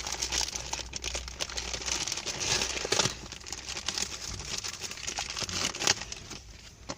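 Packaging being crinkled and torn open by hand, a steady irregular crackling that eases off briefly near the end.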